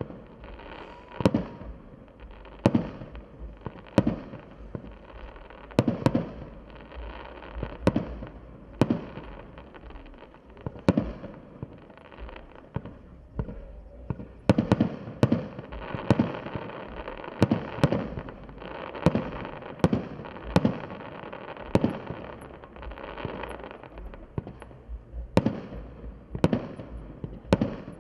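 Fireworks display: aerial shells bursting in sharp bangs every second or two, with crackling between them.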